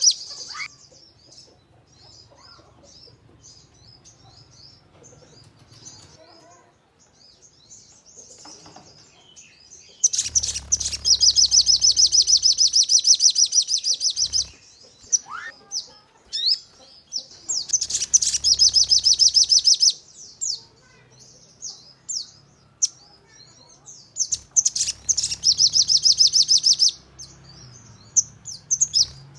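Sogon songbird singing: three long, rapid, high-pitched trilled bursts of several seconds each, about a third of the way in, past the middle and near the end, with scattered short chirps and twitters between them.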